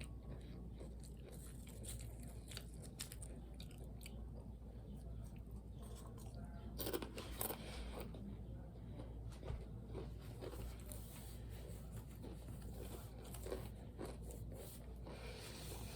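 A person chewing crunchy Cheez-It crackers close to the microphone: scattered faint crunches and mouth clicks, a little louder about seven seconds in.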